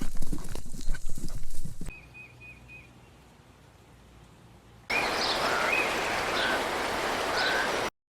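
Horse hooves clip-clopping in a quick run of sharp knocks that stops about two seconds in. After a quieter stretch, short gliding bird chirps come through a loud steady outdoor hiss near the end.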